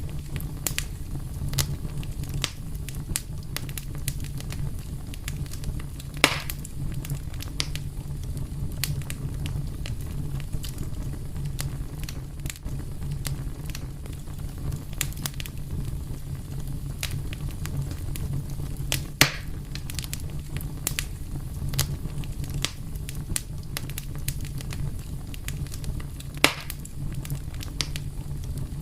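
Wood fire burning with a steady low rumble and frequent crackles, with a few louder pops about six, nineteen and twenty-six seconds in.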